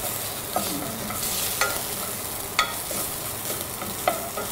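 Wooden spoon stirring onion, garlic and hot yellow pepper paste frying in oil in an aluminium saucepan: a steady sizzle with irregular light knocks and scrapes of the spoon against the pan.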